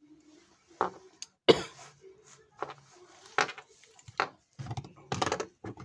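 Small hard objects clicking and knocking, about eight sharp taps with the loudest about one and a half seconds in and a quick cluster near the end: a phone's parts and small tools being handled on a workbench.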